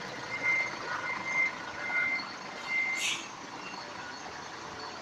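A truck's reversing alarm beeping as it backs up, stopping about three seconds in with a short hiss, after which only the truck's steady running is left.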